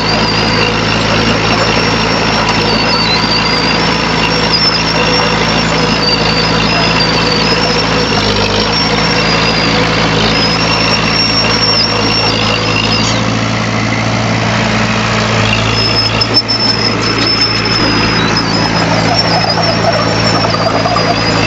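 Heavy earthmoving machine's diesel engine running steadily, with a high, wavering squeal that comes and goes over it.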